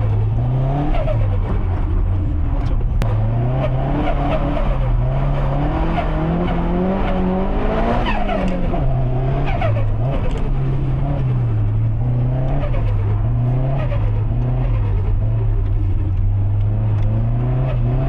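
Subaru Impreza STI's built EJ257 turbocharged flat-four being driven hard, its revs rising and falling repeatedly with throttle and gear changes. About four seconds in, one long climb in revs begins, which peaks and drops sharply near eight seconds.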